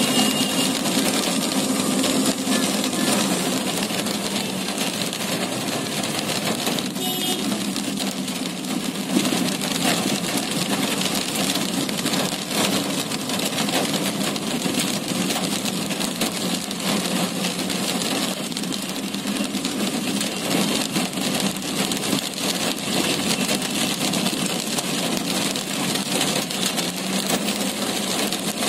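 Heavy rain pattering steadily on a car's roof and windscreen, heard from inside the cabin, with the car's engine running underneath.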